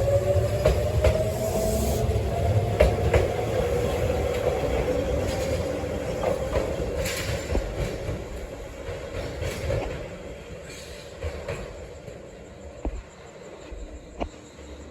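Tobu 8000-series electric train moving off and accelerating. Its motor whine rises in pitch, then holds steady, with wheels clicking over rail joints. The sound fades steadily as the train draws away.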